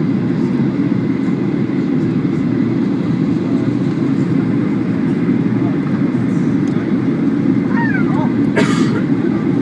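Steady cabin noise of a Boeing 737-800 airliner in flight: the engines and airflow make a loud, even low rumble. Near the end there is a brief voice-like sound and one short sharp noise.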